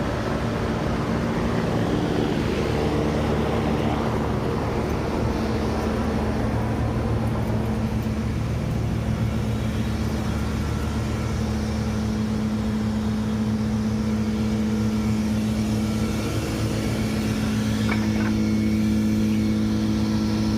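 A 25-ton Trane packaged air-conditioning unit running with a steady machine hum. Its fan is broken, and the technician says the compressor may be damaged too.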